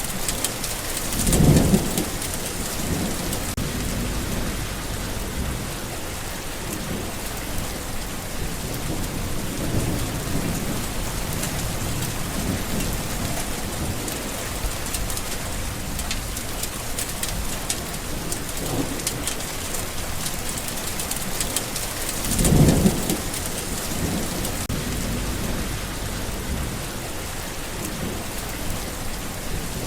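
Steady rain falling, with two short low thunder rumbles, one about a second and a half in and another about two-thirds of the way through.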